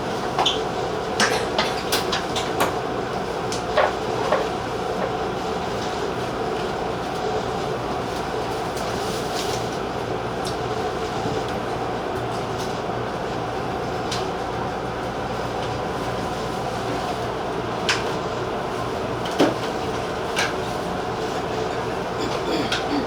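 Tobu 50090-series electric train running at speed, heard from inside: a steady running hum from motors and wheels, with sharp clicks of the wheels over rail joints, several in the first few seconds and a few more near the end.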